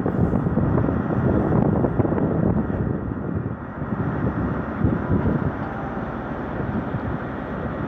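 A Great Western Railway InterCity 125 high-speed train, led by a Class 43 diesel power car, running into the platform, a rumbling mix of engine and rolling coaches, with wind on the microphone. It is loudest in the first three seconds and eases a little after that.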